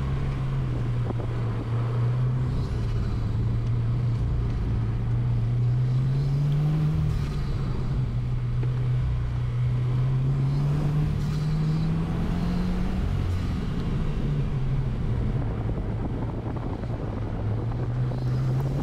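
2020 Subaru WRX's turbocharged 2.0-litre flat-four engine under hard driving, picked up by a microphone in the engine bay: the revs climb and fall back several times, dropping about seven and thirteen seconds in. Wind noise runs under it.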